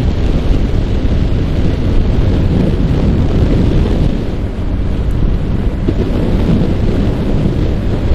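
Heavy wind rushing over the microphone of a motorcycle at riding speed, with the steady running of a Yamaha R15's single-cylinder engine underneath. The rush eases briefly about halfway through.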